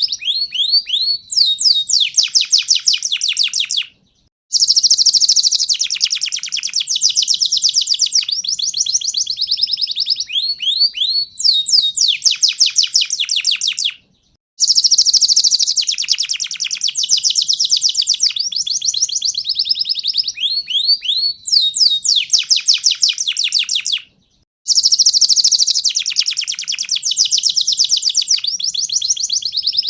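Pied ('panda') domestic canary singing a continuous song of rapid trills and sweeping notes. A brief pause comes about every ten seconds, after which the same run of song starts again.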